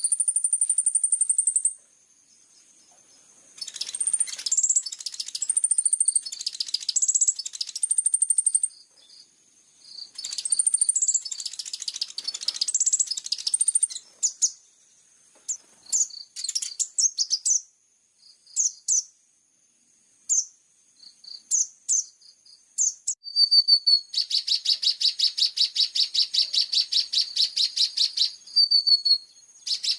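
Small songbird singing high-pitched chirps and trilled phrases in bursts, with scattered single notes in the middle and a long, rapid, even trill from about the two-thirds point to near the end.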